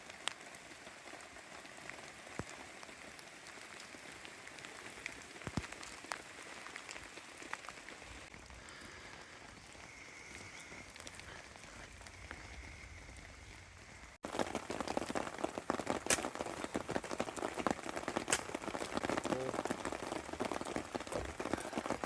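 Heavy rain falling, a steady patter with scattered sharper drip ticks. About fourteen seconds in it cuts abruptly to louder, denser rain.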